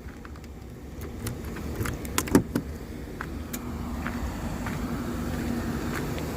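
Scattered clicks and knocks of keys and a car door and fittings as someone gets into a car, then a car running with a steady hum and a noise that slowly grows.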